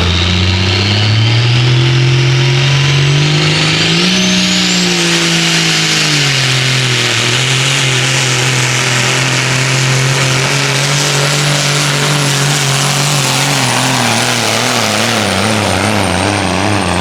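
Semi truck's diesel engine running flat out as it pulls the sled, revs climbing for about four seconds with a high whistle rising alongside, then dropping back about six seconds in and holding steady. Near the end the revs waver up and down and fall away.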